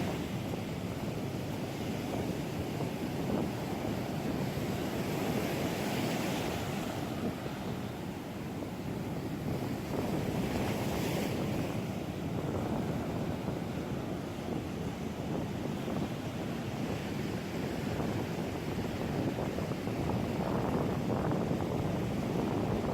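Ocean surf breaking and washing on the shore, with wind rumbling on the microphone; the hiss of the wash swells up twice, about six and eleven seconds in.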